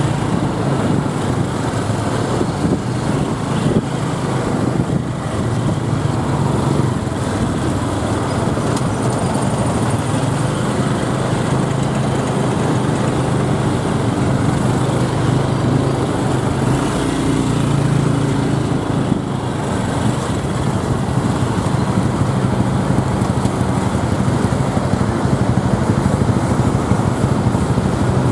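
Motorbike taxi's small engine running steadily as the bike rides through city traffic, with road and traffic noise around it.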